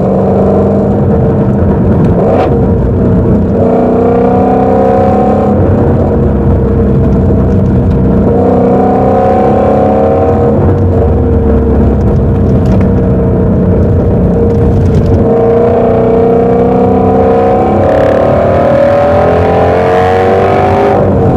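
Ford Mustang Shelby GT350's 5.2-litre Voodoo flat-plane-crank V8 running under load while driving. Its note rises in pitch several times as the car accelerates, with steadier stretches in between.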